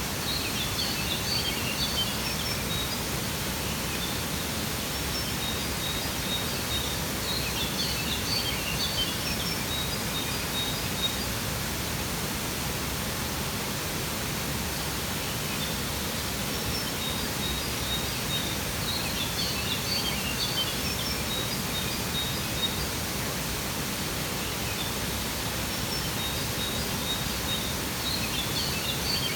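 Waterfall rushing steadily, with clusters of bird chirps and trills coming back about every ten seconds.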